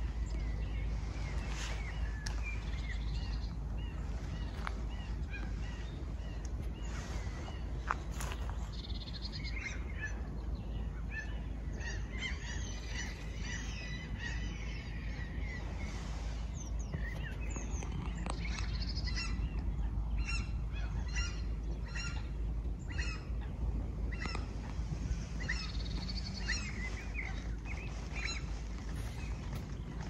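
Several wild birds calling and chirping in short, repeated notes, over a steady low rumble.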